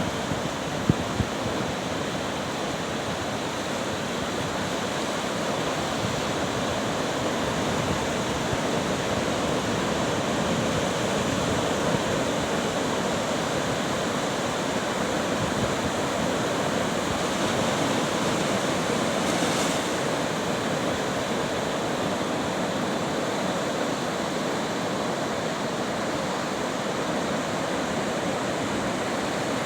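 Pacific surf breaking and washing up on a sandy beach as a steady rush of noise, with a couple of brief low thumps about a second in.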